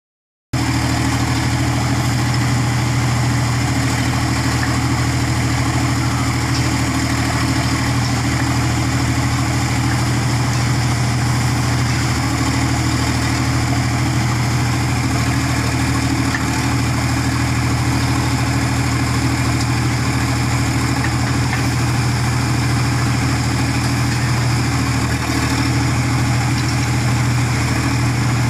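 Diesel engine of a Sonalika 47 hp tractor running steadily at constant speed, with a deep even hum; it cuts in abruptly about half a second in.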